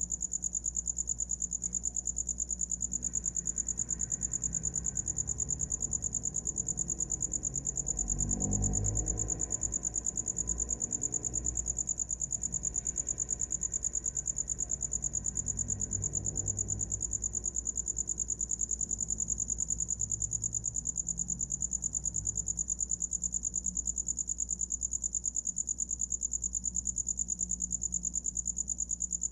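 A cricket singing a continuous, high-pitched, rapidly pulsing trill.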